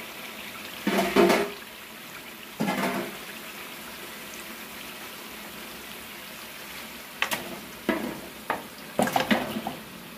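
Masala frying in a large aluminium pot with a steady hiss. There are a few louder knocks, then a run of sharp clatters near the end as chicken pieces are tipped into the pot from a metal dish.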